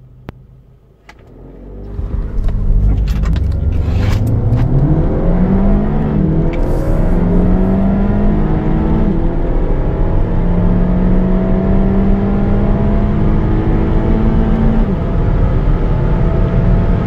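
2.0-litre turbocharged four-cylinder car engine accelerating hard from a standstill, its pitch climbing and dropping back at each gear change. A few clicks come before the engine note swells about two seconds in.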